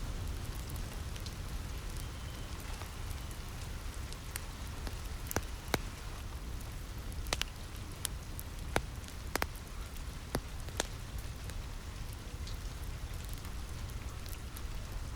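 Steady rain falling on a roof, with a low rumble underneath. A wood fire crackles over it with a scattering of sharp pops, most of them in the middle of the stretch.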